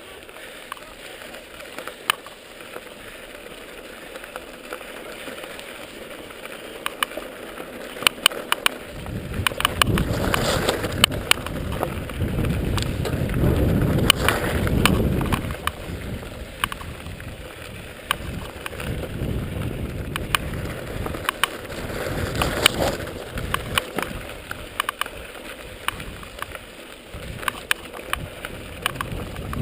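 Mountain bike riding down a dirt trail: tyre noise and the bike rattling over bumps, with many sharp clicks and knocks. A louder low rumble builds about nine seconds in and eases off after about sixteen seconds.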